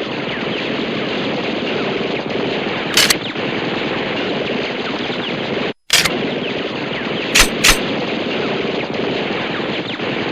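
Gunfire sound effect: a continuous rattle of rapid automatic fire, with louder single shots about 3 s in, just before 6 s, and a quick pair near 7.5 s. The rattle drops out abruptly for a split second just before 6 s and starts again.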